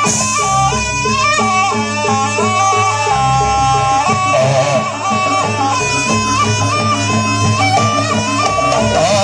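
Live Jaranan Buto ensemble music: a shrill double-reed trumpet (slompret) plays a stepping melody over steady drum and gong percussion.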